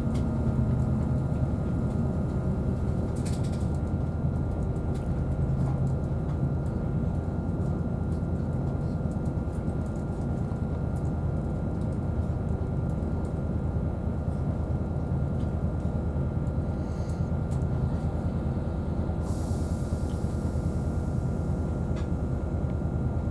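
Steady low rumble inside a Class 222 Meridian diesel multiple unit under way: the underfloor diesel engine and the wheels on the rails, with a faint steady whine over it. A soft hiss comes in for a few seconds near the end.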